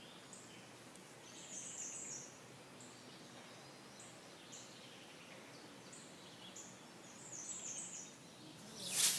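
Faint songbirds chirping: short high notes here and there, with two brief twittering phrases about two seconds in and near the end, over a soft outdoor hiss. Near the end there is a short, louder rush of noise.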